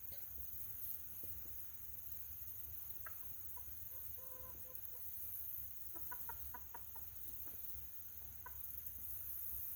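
Backyard hens clucking quietly: a few scattered clucks, a short drawn-out call about four seconds in, and a quick run of about six clucks a little after six seconds, over a steady low rumble.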